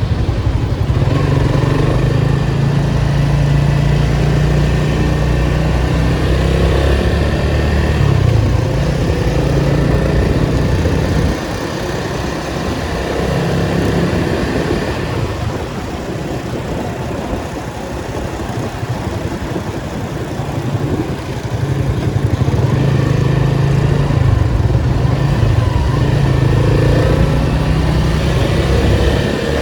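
Datsun 280Z's straight-six engine driving in traffic: the engine note climbs under throttle, drops off suddenly about a third of the way in and stays lower for about ten seconds, then builds again and eases off near the end.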